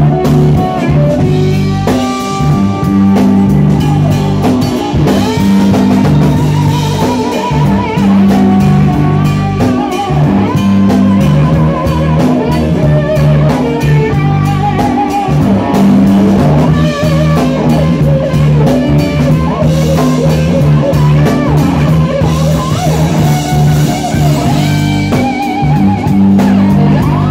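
Live blues-rock band playing an instrumental passage, with a wavering lead line over guitar, keyboards, bass and a drum kit.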